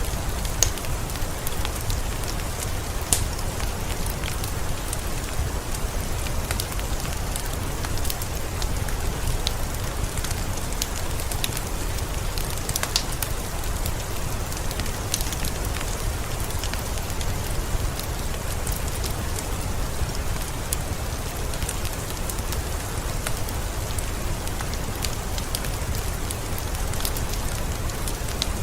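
Steady rain with a low rumble, mixed with the scattered sharp crackles of a fireplace fire.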